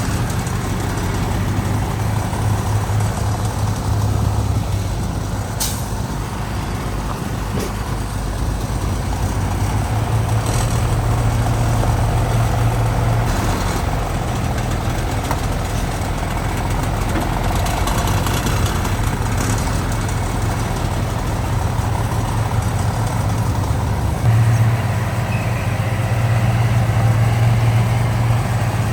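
Heavy diesel engine of earthmoving machinery running steadily, with a sharp click about six seconds in; near the end the engine note steps up and gets louder.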